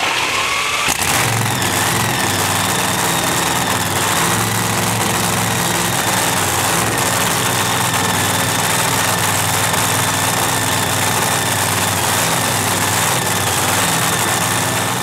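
A race car engine starts about a second in and then idles loudly and steadily, with a thin high whine running above the engine note.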